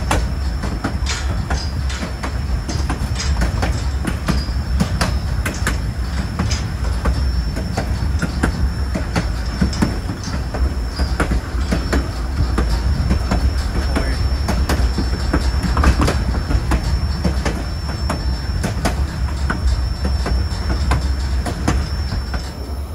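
White Pass & Yukon Route narrow-gauge train rolling along the track: a steady low rumble with irregular clicks of the wheels over the rails, and a thin, steady high-pitched wheel squeal running over it.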